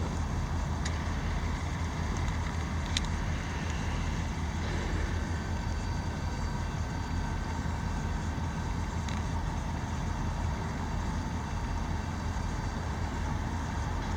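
Diesel-electric freight locomotives running with a steady low rumble, with a few faint short clicks.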